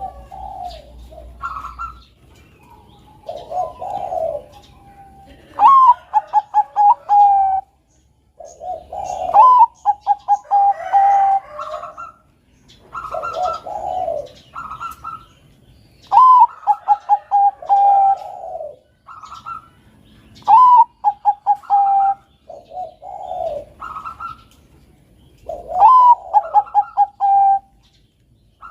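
Bangkok-line zebra dove (perkutut) cooing song: five repeated phrases, each a sharp rising note, then a quick run of short staccato coos and a longer final note. Softer, lower coos fill the gaps between phrases.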